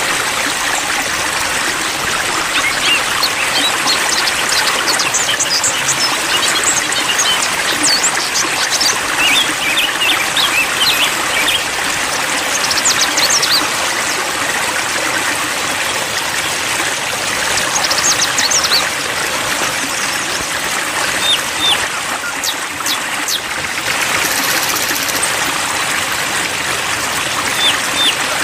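Water trickling and splashing steadily, a calming water-sound track. Faint, short, high bird chirps are scattered through it.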